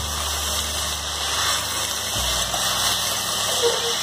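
Onion, tomato and jackfruit pieces sizzling in hot mustard oil in a pressure cooker as a slotted spoon stirs them, over a steady low hum.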